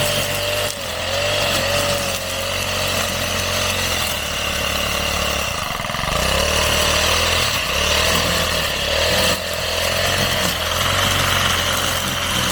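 Petrol brush cutter engine running steadily while cutting grass, its pitch wavering slightly, with brief dips about six and nine seconds in.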